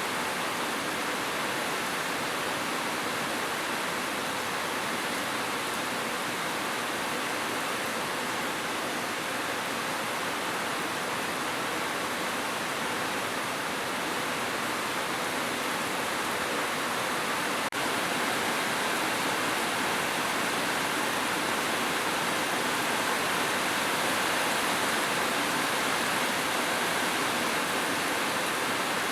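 Heavy rain falling steadily on a roof, an even hiss with no thunder. A faint click about two-thirds of the way through, after which the rain is slightly louder.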